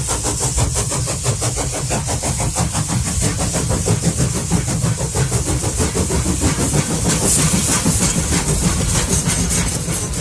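Steam train chugging in a fast, even rhythm of about four to five beats a second, with a steady hiss and a low rumble underneath.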